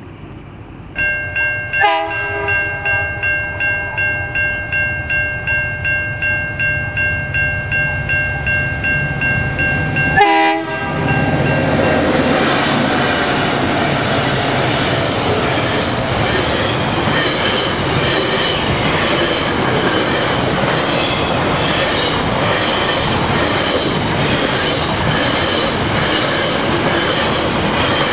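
Level crossing bells start ringing about a second in, and a freight locomotive's horn sounds two short blasts, about two and ten seconds in. From then on, an SCT Logistics freight train hauled by three diesel locomotives passes over the crossing at speed, a loud continuous noise of engines and wheels on the rails.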